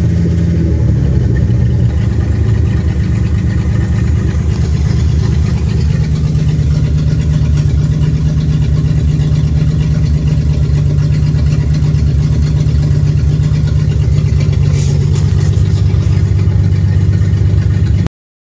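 Datsun 260Z's straight-six engine idling loudly and roughly through an exhaust with a large rotted hole in it; the owner suspects a misfire after the engine froze. The sound cuts off abruptly near the end.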